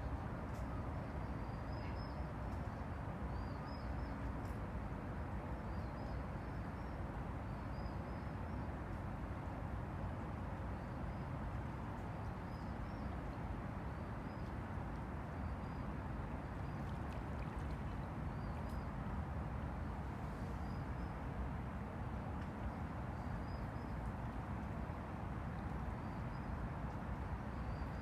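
Steady wash of Han River water lapping, over a low rumble, with a faint high chirp repeating about once a second.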